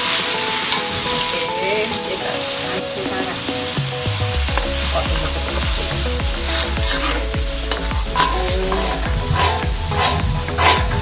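A blended paste of garlic, onion and dried anchovies sizzling in hot oil in an aluminium wok, stirred with a metal ladle. The ladle's scrapes and knocks against the wok come more often in the second half.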